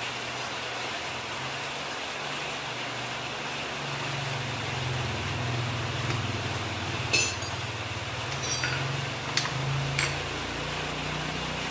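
Hand tools and metal engine parts clinking about four times in the second half, the first the loudest, over a steady low hum.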